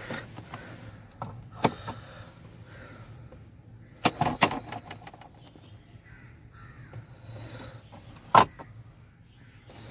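Crows cawing, with a few sharp clicks and knocks. The knocks come in a cluster about four seconds in, and the loudest single knock comes near the end.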